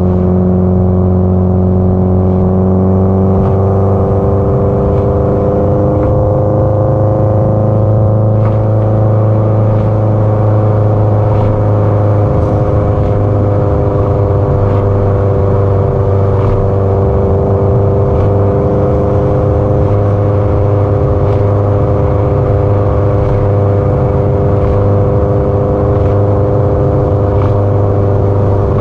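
Subaru Impreza WRX STI (GDB-E) turbocharged 2.0-litre flat-four exhaust, heard while cruising. The engine note rises slightly over the first several seconds, then holds at a steady speed.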